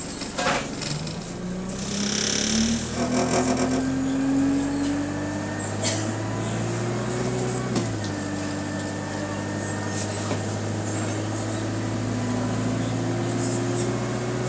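Bus engine and automatic gearbox accelerating: a whine climbs steadily in pitch, drops abruptly at a gear change about eight seconds in, then climbs again near the end. A short hiss of air sounds about two seconds in.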